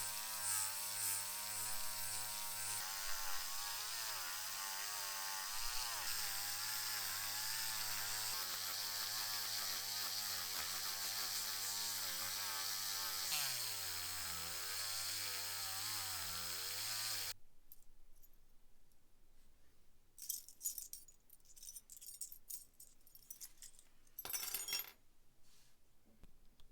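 Small electric power tool running under varying load, its pitch wavering and dipping briefly about 13 seconds in over a steady abrasive hiss; it cuts off suddenly about 17 seconds in. Scattered small clicks and scrapes of handling metal parts follow.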